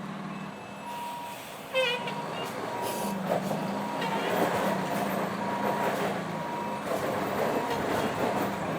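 A heavy truck's reversing alarm beeping about once a second over a running diesel engine, with the engine noise growing heavier from about three seconds in. A brief loud warbling sound comes just before the two-second mark.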